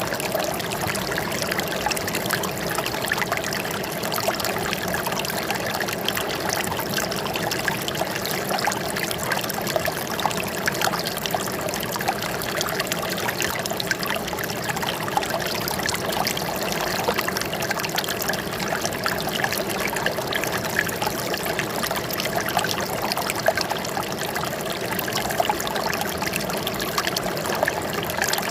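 Running water trickling and splashing steadily, a continuous pour with many small splashes and no change in level.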